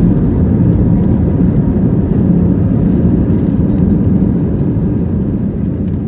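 Airbus A320 airliner heard from inside the cabin during its landing: a loud, steady rumble of engines and airframe that slowly eases, with faint light rattles.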